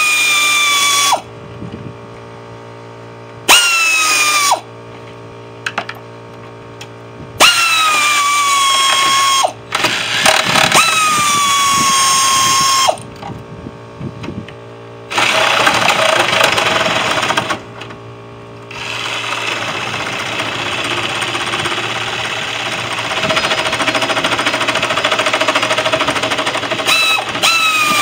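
Electric power saw run in repeated bursts. In each short run the motor tone starts high and drops as it slows under load, then cuts off. Near the end come longer, rougher stretches of steady cutting.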